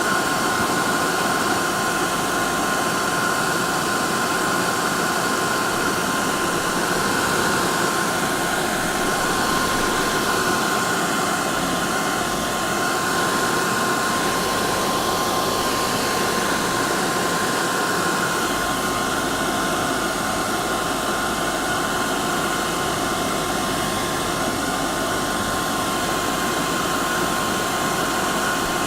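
Hair dryer running steadily: an even rushing of air with a constant high motor whine.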